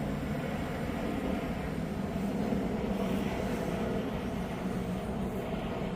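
Large RC foam model airplane's motor and propeller droning steadily in flight, with wind rumbling on the microphone.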